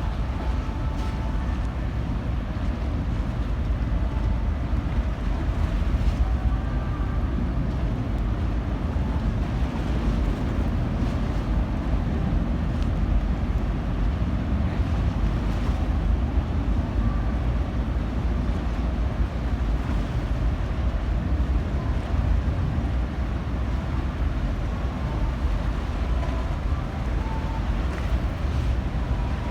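Steady low rumble of a car ferry's engines, with wind on the microphone and the wash of water.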